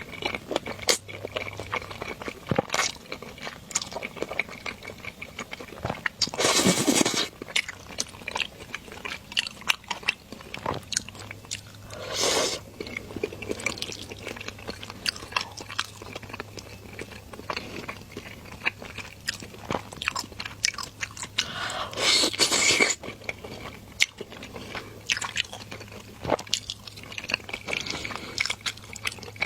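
Close-miked eating of stir-fried rice noodles: wet chewing and mouth clicks throughout, with three loud slurps of noodles spread through the stretch.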